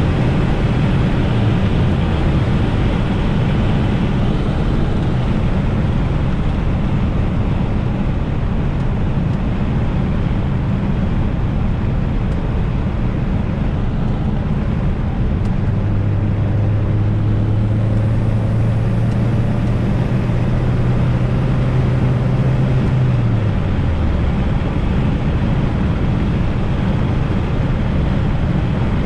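Fiat Coupe 16V Turbo under way, with its turbocharged four-cylinder engine and road noise making a steady low rumble. About halfway through, an engine tone comes in and climbs slowly for several seconds as the car pulls. It then drops away quickly about two-thirds of the way in as the revs fall.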